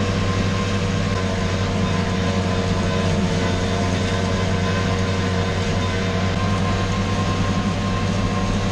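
Farm machinery running steadily: an engine drone with a few steady whining tones over it, unchanging throughout.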